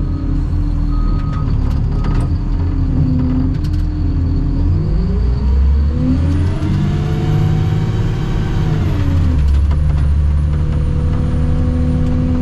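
Heavy diesel engine running, revving up about five seconds in, holding high for about three seconds, then dropping back to idle. A few light clicks sound in the first few seconds.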